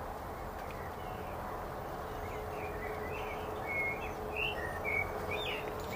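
A bird chirping a string of short, high calls, starting about two seconds in, over a steady background hiss.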